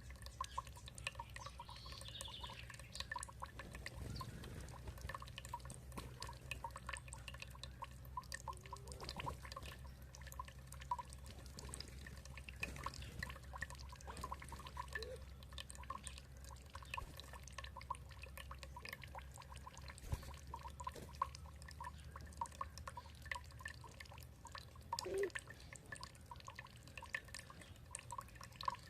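Water dripping and trickling in a constant patter of small ticks over a steady low hum, with an occasional faint bird call.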